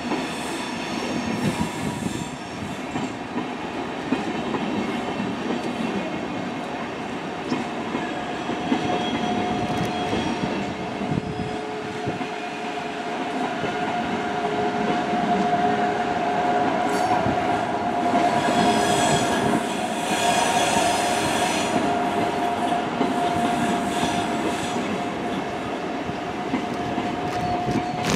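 Long electric multiple-unit passenger train passing at a steady pace, its wheels rumbling on the rails, with a steady whine held throughout and a hiss that swells briefly past the middle.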